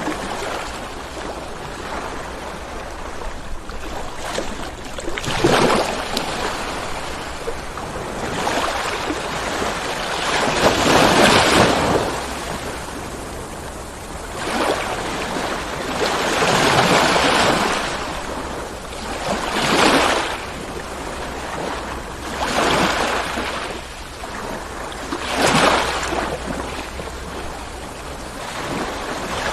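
Ocean waves breaking and washing on the shore, about eight surges rising and falling in turn, the biggest near the middle.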